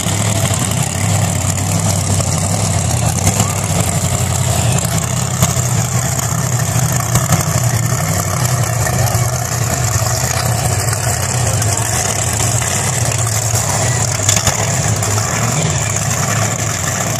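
Wheelstander drag-exhibition car's engine running steadily, without sharp revving.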